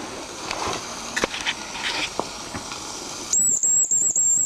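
Mamod TE1A miniature steam engine running, with a steady hiss of steam and light irregular clicks. Near the end a shrill, high whistle sounds for about a second.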